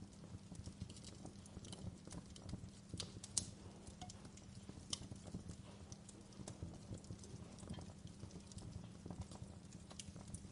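Wood fire crackling: irregular snaps and pops, one sharper pop about a third of the way in, over a steady low hum.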